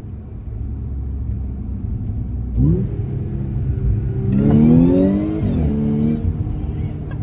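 Audi S5 engine with an aftermarket titanium intake, running low and then revving up twice: a short rise, then a longer, louder rev with a rush of intake hiss before it drops back.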